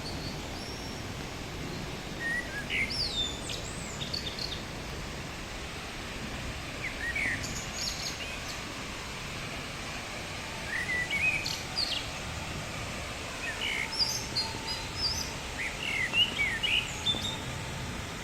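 Small birds chirping and singing in short, scattered phrases over the steady rushing noise of the Düden waterfall's water.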